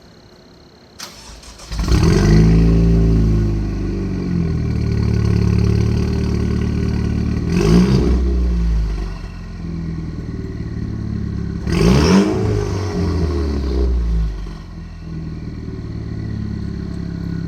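Cadillac ATS 2.0T's turbocharged four-cylinder, straight-piped with a 3-inch exhaust and 2.5-inch turndown, warm-starting: a brief crank about a second in, then it catches with a loud flare and idles. It revs twice, about eight and twelve seconds in, before settling to a steady idle.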